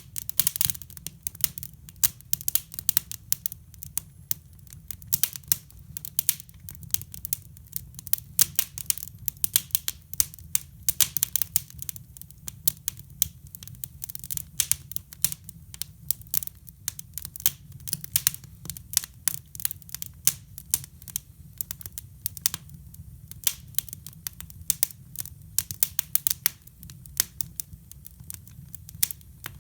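Wood fire in a hybrid fireplace crackling, with dense, irregular sharp cracks and pops over a low steady hum.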